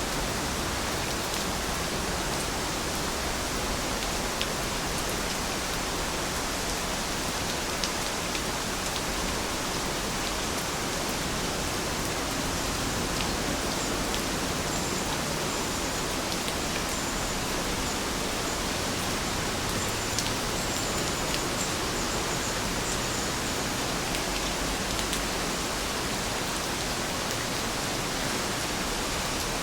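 Steady, even rain falling, with scattered faint ticks of single drops. A few faint, short, high chirps come through around the middle.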